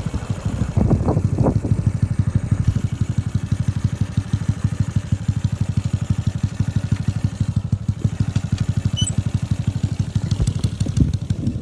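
Freshly assembled motorcycle engine idling steadily, with quick, even exhaust pulses on its first run.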